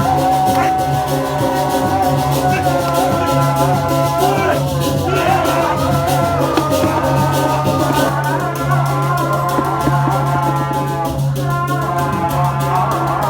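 Music of Balinese gamelan playing, with sustained pitched metallic tones over a fast, dense pulse of strikes.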